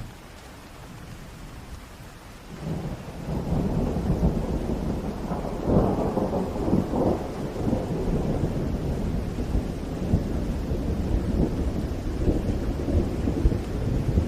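Steady rain, with a long roll of thunder that rumbles in a couple of seconds in and keeps going, loudest about halfway through.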